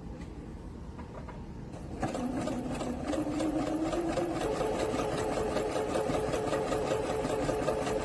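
Singer Quantum Stylist 9960 computerized sewing machine starting about two seconds in and sewing. Its motor whine rises as it speeds up, then holds steady under a fast, even run of needle strokes.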